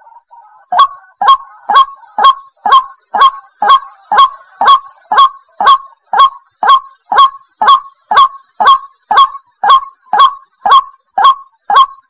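White-breasted waterhen calling over and over in a steady rhythm of about two loud calls a second, starting about a second in. A faint steady high-pitched hiss runs underneath.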